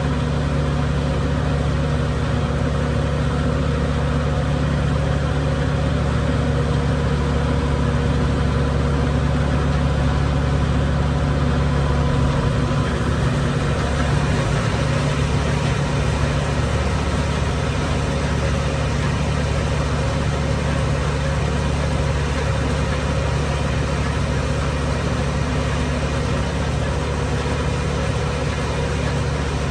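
Engine running steadily while a feed mill grinds ear corn: a continuous machine drone with a low engine hum.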